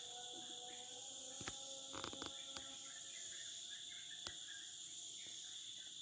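Steady high-pitched chorus of crickets and other insects, with a few faint clicks.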